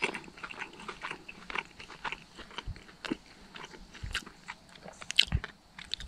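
A person chewing a mouthful of crusted chicken close to the microphone: many small, irregular crunches and mouth clicks.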